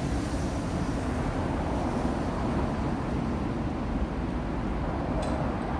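Steady low rumble of road traffic noise, with a couple of faint clicks about five seconds in.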